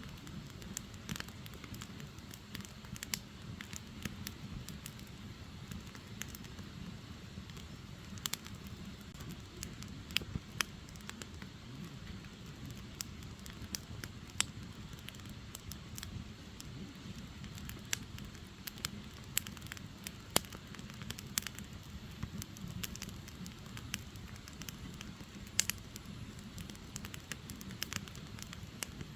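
Firewood burning: irregular sharp crackles and pops over a steady low rush of the fire.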